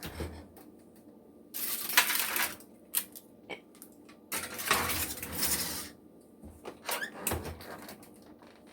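Kitchen clatter as ramekins go into the oven: two scraping, rattling stretches of about a second each, with scattered clicks and knocks of dishes and metal.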